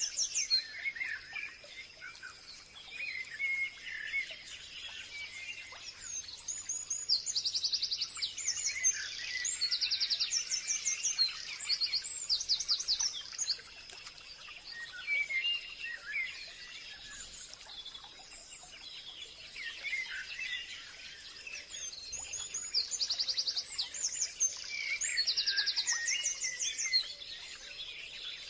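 Forest birdsong: several birds singing, with quick trilled phrases that recur every few seconds and scattered chirps between them, over a faint steady high-pitched tone.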